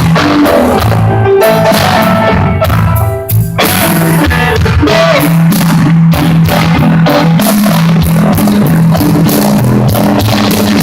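Rock band playing live at full volume: drum kit and bass carry a steady groove. The music breaks off briefly about three and a half seconds in, then the whole band comes back in.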